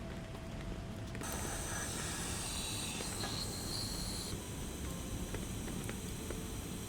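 A steady low rumble of wind with scattered light ticks. About a second in, a high hiss starts suddenly, and part of it cuts off about three seconds later.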